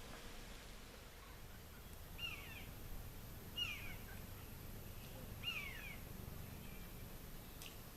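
A bird calling three times, each a short call that falls in pitch, a second or two apart.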